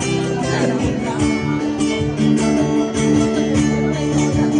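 Live band playing an instrumental passage with no singing: strummed guitar over sustained chords and a steady beat.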